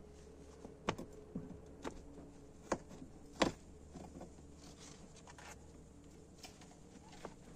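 Scattered sharp knocks and clicks during hand repair work, irregular rather than a steady hammering rhythm. The three loudest come about a second in, just before three seconds, and just after, over a faint steady low hum.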